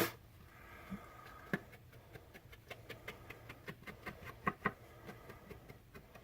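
Light, irregular taps and scuffs of a chalk ink pad being dabbed and rubbed along the edges of cardstock pieces, a few soft ticks a second.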